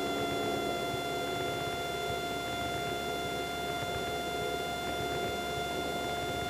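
Cessna 172's piston engine and propeller at full takeoff power during the takeoff roll: a steady drone with a constant whining tone.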